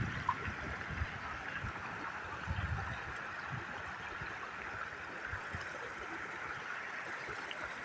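River water flowing steadily in a rushing hiss, with a few soft low thumps.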